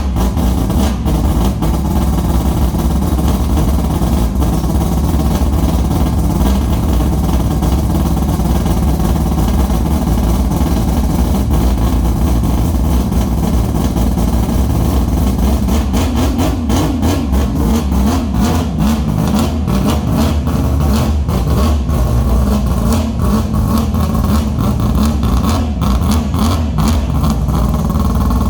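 Six-rotor 3.9-litre peripheral-ported rotary engine of a custom BMW M6 running at a steady, loud level, its sound turning choppier from a little past halfway.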